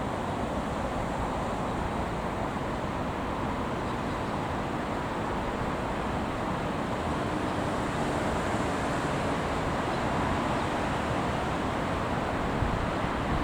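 Steady low rumble and hiss of outdoor background noise, with wind gusting on the microphone near the end.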